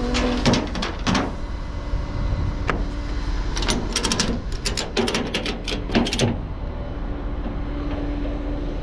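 A vehicle engine running steadily, with a quick series of sharp clicks and knocks for a couple of seconds in the middle.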